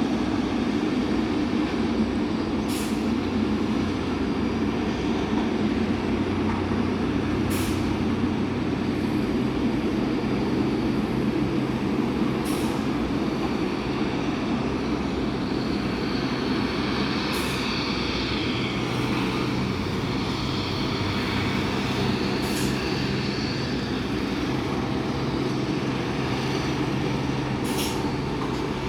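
Jet airliner's engines running at low power: a steady rumble with a high turbine whine that comes up around the middle.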